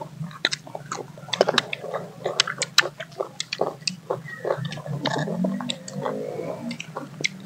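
Close-up eating of firm green mango slices dipped in chili sauce: many sharp crunches as the pieces are bitten, with wet chewing and squishing between them.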